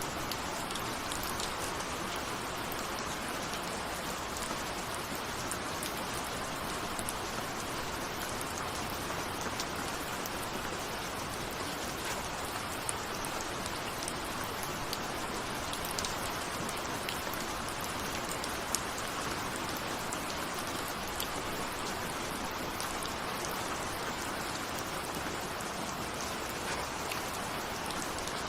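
Steady rain with the sharp ticks of individual raindrops hitting a window.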